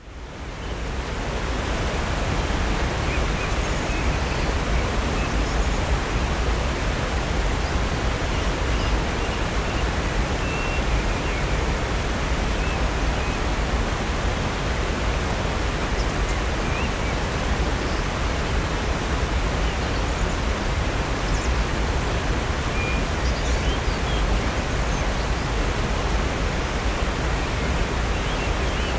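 Upper North Falls, a 65-foot waterfall, rushing steadily as it drops into Silver Creek, fading in over the first second. A few faint short bird chirps sound above the rush.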